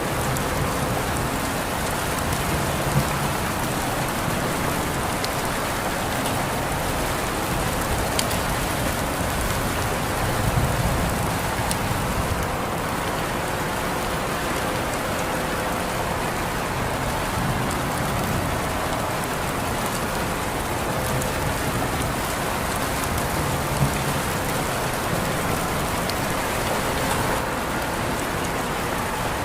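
Steady rain falling on a surface, an even hiss with the odd louder drop striking.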